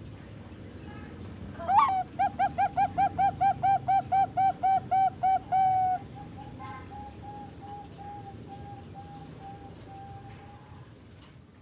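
Young Bangkok-strain zebra dove (perkutut), about 3.5 months old, calling: a rising opening note, then a quick, even series of about fourteen loud cooing notes, followed by a fainter run of notes that trails off.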